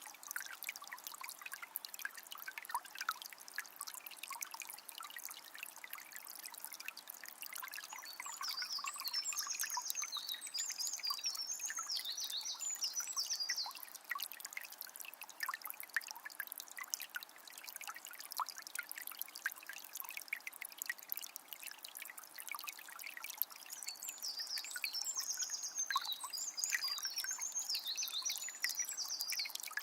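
Water of a small spring trickling and splashing steadily. A songbird sings a quick, high song twice: in the middle and near the end.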